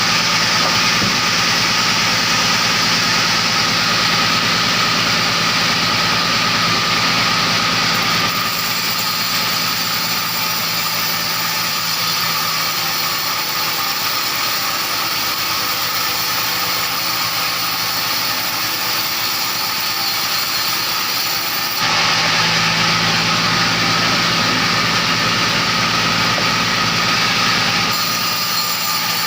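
An engine-driven saw running steadily, its sound changing abruptly about 8 seconds in and again about 22 seconds in.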